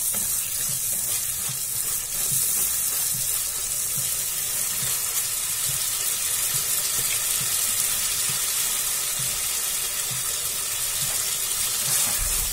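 Tomato and spice masala frying in oil in a non-stick kadhai: a steady sizzle and bubbling, with a spatula stirring through it at the start.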